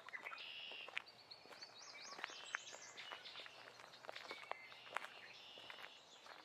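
Forest birds singing several high chirping and trilling phrases, with faint scattered crunching footsteps on leaf litter.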